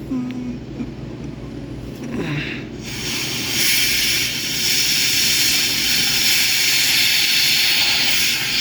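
Compressed air from a blowgun hissing through the transmission cooler lines, blowing cleaner and fluid out of the cooler. The hiss comes in about three seconds in and then runs on steadily.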